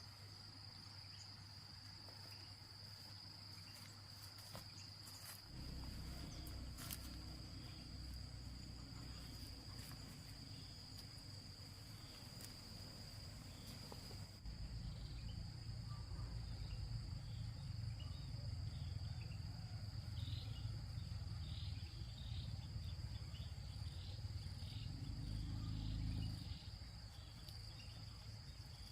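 Insects, crickets by the sound, trilling steadily in one continuous high-pitched tone. A low rumble comes in about five seconds in, grows louder around halfway and drops away near the end.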